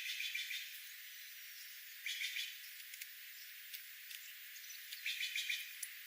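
Wild birds chirping in three short bursts of rapid notes, about two and a half to three seconds apart, over a steady background hiss.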